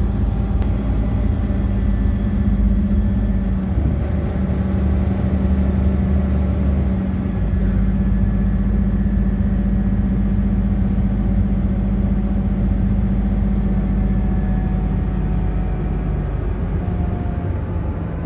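Bus engine and road noise heard from inside the passenger cabin: a steady drone, its lowest tone shifting for a few seconds a little after the start.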